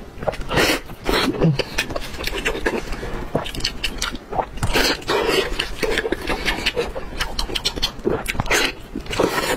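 Close-miked wet chewing and lip smacking on sticky, sauce-glazed braised pork with skin, in quick, irregular clicks and squelches.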